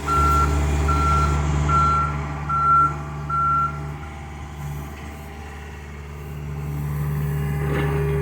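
John Deere excavator's diesel engine running steadily while its travel alarm beeps five times, evenly spaced, then stops about four seconds in. The engine grows louder near the end.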